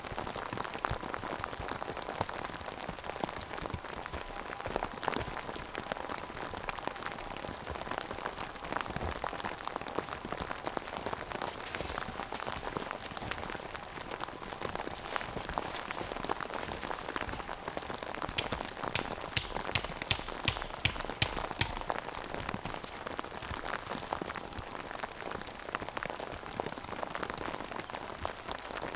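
Rain falling steadily on a surface, dense with small drop ticks, with a short run of louder, sharper ticks about two-thirds of the way through.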